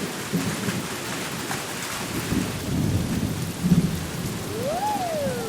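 Rainstorm sound effect: steady rain with low rumbles of thunder, the strongest about two and a half and nearly four seconds in. Near the end a single tone rises and then falls.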